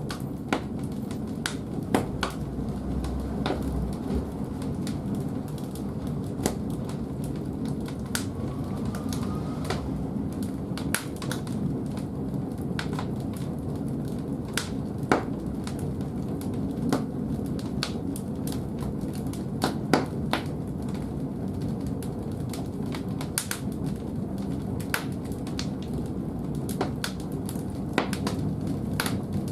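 Firewood burning in the firebox of an old wood-fired bathhouse boiler: a steady low rumble of the fire with irregular sharp crackles and pops of the burning wood.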